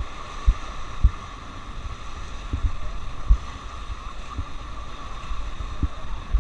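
Rushing river water around a drifting raft, a steady hiss, with short low thumps and buffeting on the microphone every second or so.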